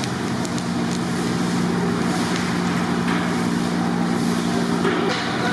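Steady mechanical hum over a steady noisy roar, with a few faint clicks.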